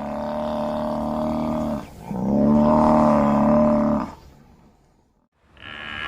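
Animal calls: two long, steady-pitched calls of about two seconds each, one straight after the other, then a short pause and a third call with a rising and falling pitch starting near the end.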